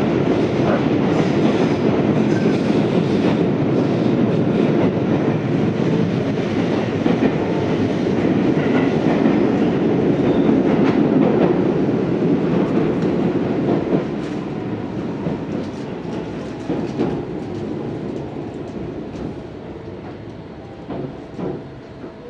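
Tobu 634-series electric train running, heard from inside the car: a steady rumble of wheels on rail with scattered clicks over the rail joints. From about 14 s in the sound grows steadily quieter as the train slows for its next station stop.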